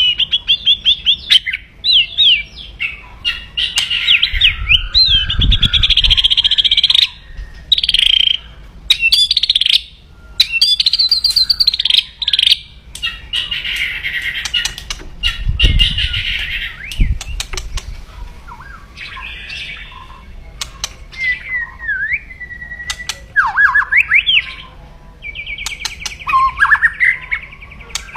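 White-rumped shama (murai batu) giving kretekan: loud, fast, harsh rattling calls mixed with whistled gliding notes, the agitated call of a fired-up, aggressive bird. Two low thumps come about five and fifteen seconds in.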